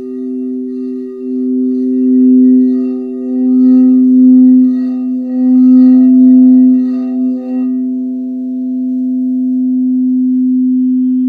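Singing bowls ringing with two steady low tones, the lower one swelling and ebbing in slow waves. The higher overtones die away about eight seconds in, leaving a steady hum.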